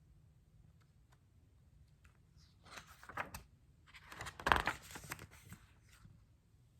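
Paper rustling and crinkling as a book's pages are handled and turned, in two bursts, the louder one about four and a half seconds in.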